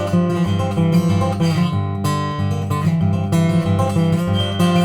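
Acoustic guitar strummed and picked in a steady rhythm: an instrumental passage between sung verses.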